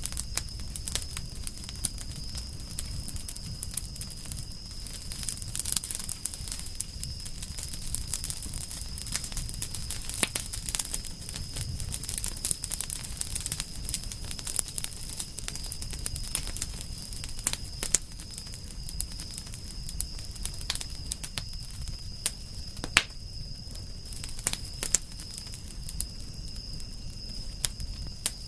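Wood fire burning in a campfire, crackling with many small sharp pops and a few louder ones, over a low rumble of the flames. A steady thin high tone runs behind it.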